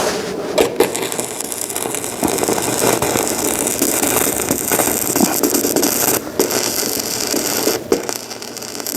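Electric arc welding: a steady crackling hiss from the arc, broken briefly about six and eight seconds in, with a few knocks.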